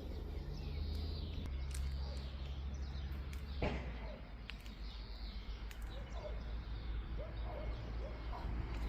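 Birds chirping and calling over a steady low rumble, with a single short knock about three and a half seconds in.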